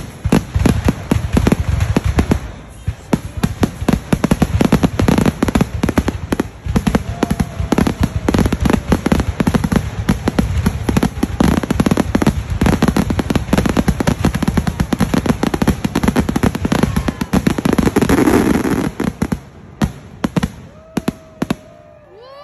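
Fireworks grand finale: a dense barrage of aerial shell bursts, many bangs a second. A stretch of crackling comes near the end, then the barrage thins to a few last separate bangs.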